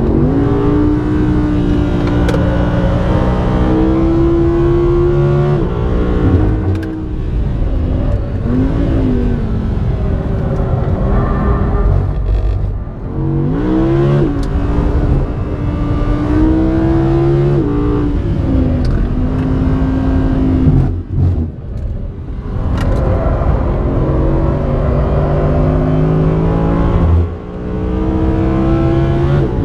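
Audi R8 V10 Plus's 5.2-litre naturally aspirated V10 at racing speed, revs climbing and falling through gear changes and corners. The level drops briefly about four times, the longest dip about two-thirds of the way through, before the engine pulls hard again.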